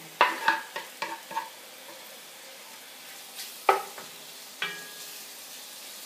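Cubed chicken breast sizzling in hot olive oil in a 12-quart Lodge cast-iron Dutch oven. A quick run of knocks comes in the first second and a half as the pieces are pushed off a wooden cutting board into the pot. Two more knocks about midway come from a wooden spatula stirring against the iron, the second with a short ring.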